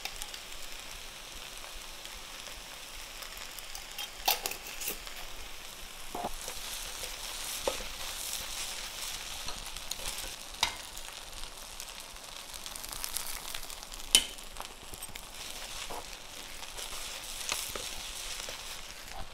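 Fried rice sizzling in a wok as it is stirred, with a steady high hiss and now and then the knock of a utensil against the wok; the sharpest knock comes about fourteen seconds in.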